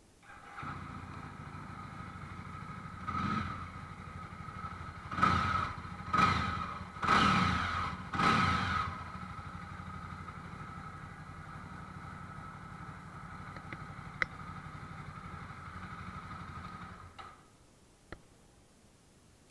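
Jawa motorcycle's 293cc liquid-cooled single-cylinder engine starting and idling, revved in five short blips between about three and nine seconds in, then idling again until it is switched off near the end.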